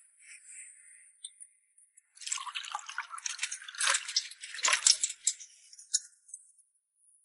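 Wet, liquid sounds: a dense, crackly run of drips and small splashes lasting about three seconds, starting about two seconds in.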